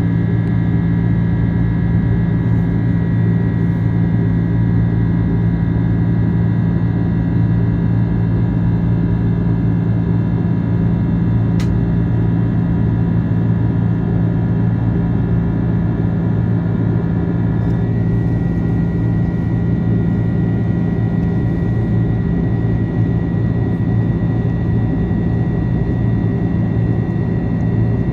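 Steady cabin noise inside an Airbus A330-300 airliner in flight: a constant drone of engines and airflow with several steady hums. About eighteen seconds in, one of the higher tones drops out.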